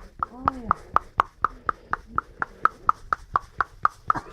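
Small handheld massager clicking steadily, about four sharp ticks a second, while it is run over someone's back.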